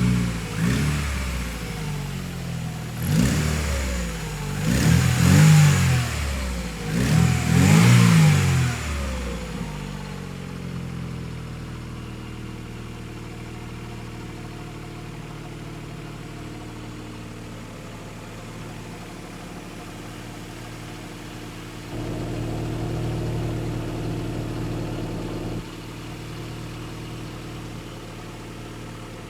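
Mercedes-Benz W210's 2.3-litre M111 four-cylinder petrol engine blipped four times, each rev rising and falling, then settling to a steady idle. A few seconds near the end the sound gets louder for about three seconds, then drops back.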